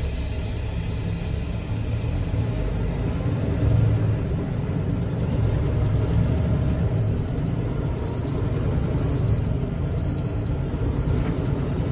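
Semi truck's diesel engine rumbling steadily, with a short high-pitched warning beep about once a second that stops after the first second or so and starts again about six seconds in.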